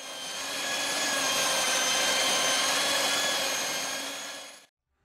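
Philips electric hand mixer running steadily with its dough hooks kneading roti dough: a steady motor whine that fades in at the start and fades out about four and a half seconds in.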